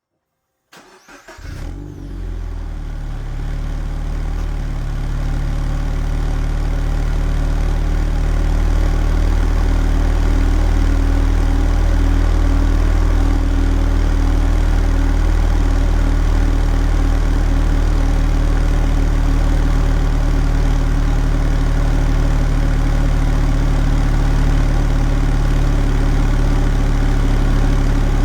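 Toyota 86 (ZN6) 2.0-litre flat-four boxer engine starting about a second in, then idling steadily through a 5ZIGEN SP aftermarket muffler, with a low exhaust note. The idle grows a little louder over the first several seconds, then holds steady.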